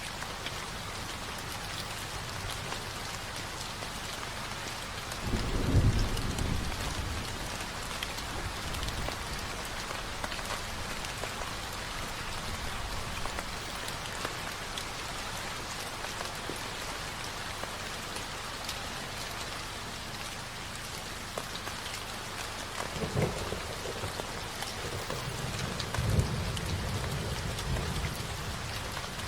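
Steady rain falling, with low thunder rumbling about six seconds in, again briefly later, and once more for a few seconds near the end.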